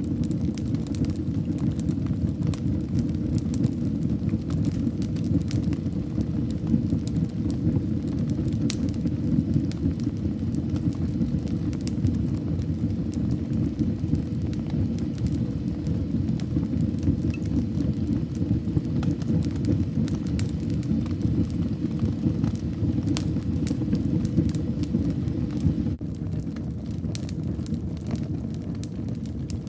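Fire burning in a fireplace: a steady low rumble of flames with frequent small crackles and pops, a little quieter in the last few seconds.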